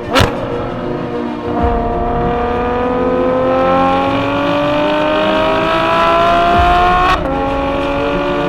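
Ferrari F12 Berlinetta's V12 engine revving, its pitch climbing steadily for about five seconds before dropping off abruptly, with background music underneath.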